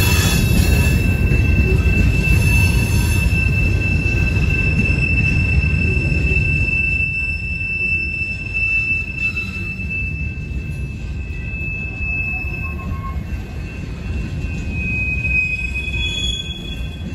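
Covered hopper cars of a loaded grain train rolling past with a steady rumble of wheels on rail. Over it is a high, thin wheel squeal that holds for most of the time, fades about twelve seconds in and comes back briefly near the end: steel wheel flanges grinding against the rail as the train takes the junction curve.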